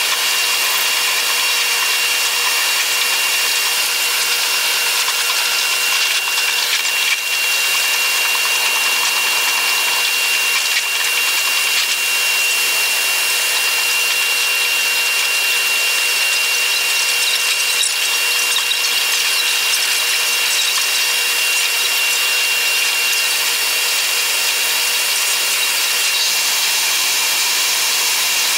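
Train running noise played back about eight times faster than real time: a steady, high-pitched hissing whir with a few thin steady tones in it.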